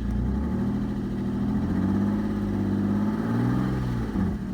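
2003 Suzuki XL7's 24-valve 2.7-litre V6 revved up from idle, held briefly at higher revs, then let fall back toward idle near the end.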